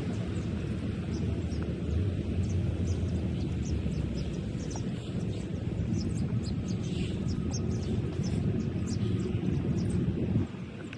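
Outdoor ambience: a steady low rumble with small birds chirping over it. The rumble drops off abruptly near the end.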